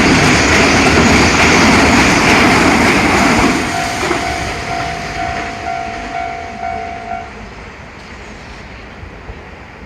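Keihan Main Line electric train passing over a level crossing, loud until about three and a half seconds in and then fading away. The level-crossing warning bell rings on in an even repeating kan-kan and stops about seven seconds in, once the train has cleared.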